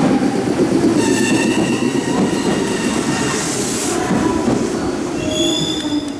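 Meitetsu red electric express train pulling out and moving away along curving track: a steady rolling rumble, with high squealing tones from the wheels on the curve about a second in and again near the end, fading as the train leaves.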